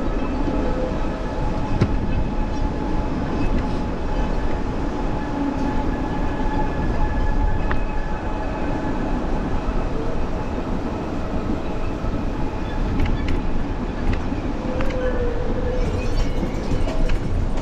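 Steady rumbling noise of a beach cruiser bicycle rolling along the sand, with faint whining tones and scattered clicks over it.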